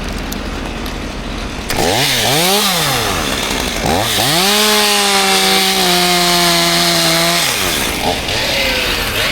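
Chainsaw engine revved up and down twice, then held at high revs for about three seconds before dropping back.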